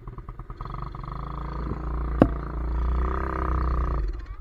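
Pit bike engine running cold, revved up from about half a second in and held high until it drops back near the end, with a single sharp pop about two seconds in. The engine is cold-blooded: not yet warmed up.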